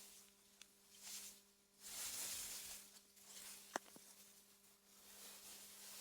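Soft wind through meadow grass in an AI-generated ambience track, a faint airy hiss that swells and fades in gusts, over a faint steady hum. A single sharp click a little past the middle is the loudest sound.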